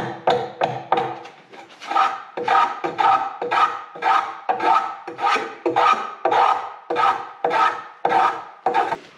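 A hand tool working a piece of wood in quick, regular strokes, about three a second.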